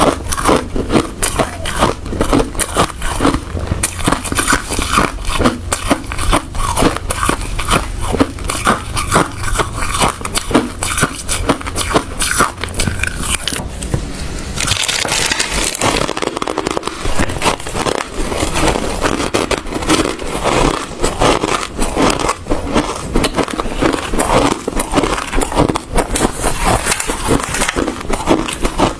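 Hard ice being bitten and chewed close to the microphone: a dense, continuous run of sharp cracks and crunches. About halfway a low background hum drops out.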